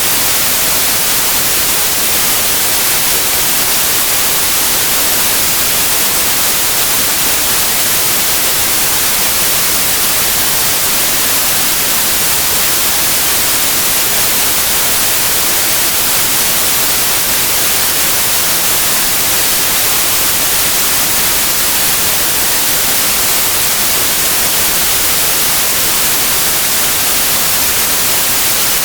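Steady white noise: an even, unchanging hiss with no melody or rhythm, used as a sleep sound for babies.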